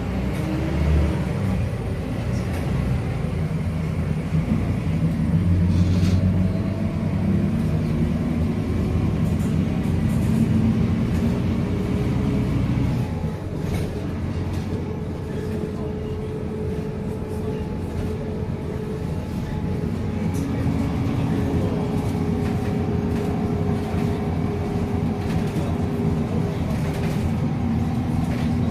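Scania K310UA articulated city bus running on the road: a steady engine drone with road noise and light rattles, easing off briefly about halfway through, then pulling again with a steady whine.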